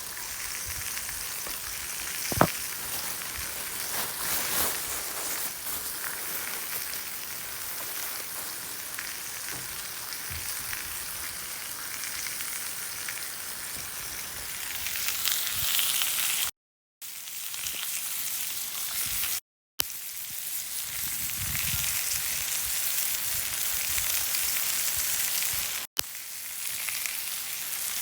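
Beef sizzling in a cast iron pan: a steady, hissing fry, with one sharp pop a couple of seconds in.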